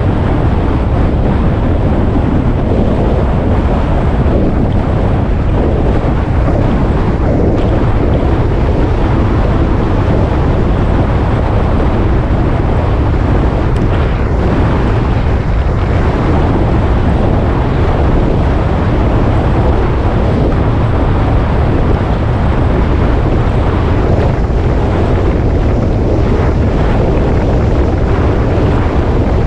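Steady wind noise on the microphone from a moving motorcycle, with the motorcycle's engine and road noise underneath.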